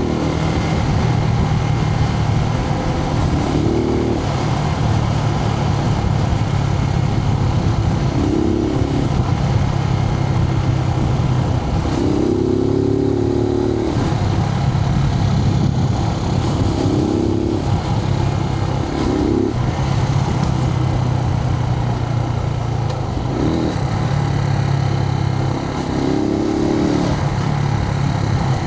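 Suzuki TU250X's air-cooled single-cylinder engine running under way, heard from inside the rider's helmet, with its pitch rising briefly several times over a steady drone and a haze of wind and road noise.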